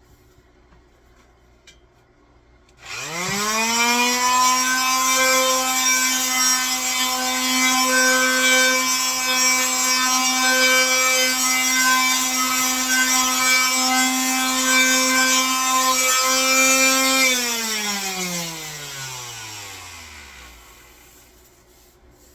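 Electric power tool motor switched on about three seconds in, spinning up quickly to a steady high running pitch. It runs for about fourteen seconds, is switched off, and winds down over a few seconds with a falling pitch.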